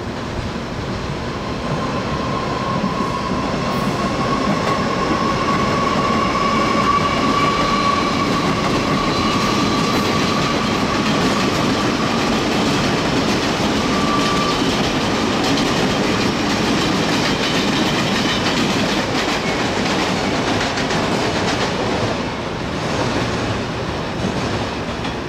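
Electric trains running through a station yard over the points: a locomotive-hauled express pulling away, then an EMU700 electric multiple unit coming through close by. There is a steady rumble of wheels on rail, with a high whine that rises slightly in pitch through the first half, and the sound is loudest in the middle.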